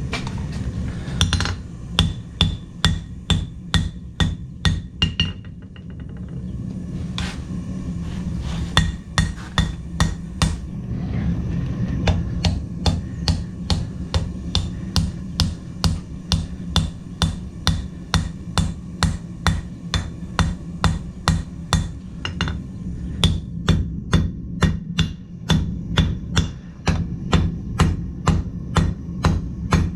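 Blacksmith's hand hammer striking steel on an anvil: runs of sharp blows at about three a second, with a brief ring after each and a few short pauses. A steady low rumble runs underneath.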